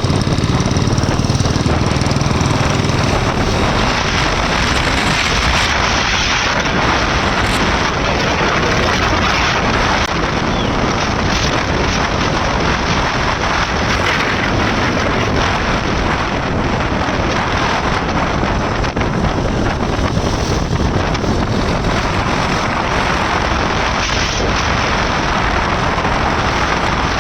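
Riding sound of a KTM RC 390 motorcycle: steady wind rush over the helmet microphone with the single-cylinder engine running underneath.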